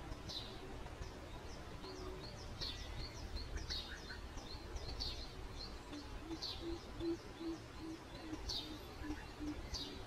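Small birds chirping in short, high calls that repeat every half second or so. In the second half a lower bird call joins in, a run of hoots about three a second. A low rumble sits under it all.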